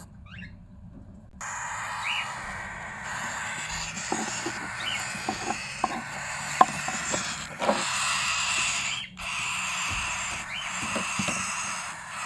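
Cockatiels at a nest box: a few short faint chirps over a scratchy hiss, with a scatter of clicks and taps between about four and eight seconds in.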